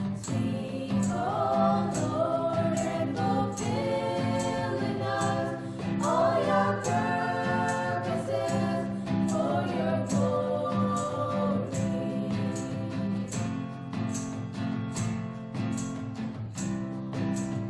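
Gospel-style church song: voices singing held melodic lines over an instrumental backing with a steady drum beat. The singing fades out about 12 seconds in, leaving the instruments.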